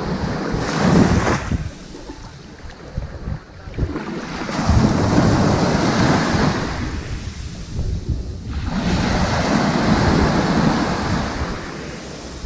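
Ocean waves washing onto a sandy beach: surf swells and recedes in three surges, a short one about a second in and two longer, louder washes around the middle and near the end.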